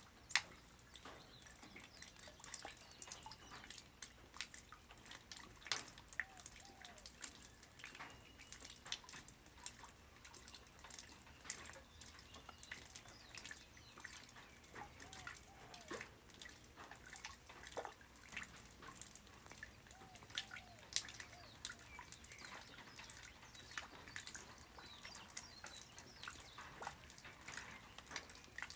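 Light rain falling on the ground: a soft hiss with many irregular drops and drips, and a few faint short calls, like birds, now and then.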